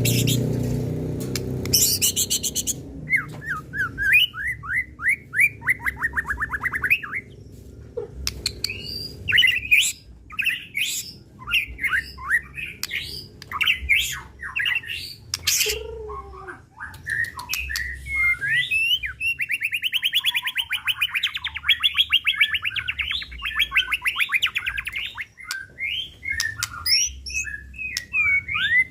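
White-rumped shama (murai batu) singing a loud, varied song of fast repeated trills, sharp whistled sweeps and chirps, with a long rapid rattling trill about two-thirds of the way through. It is pouring out its repertoire of mimicked phrases.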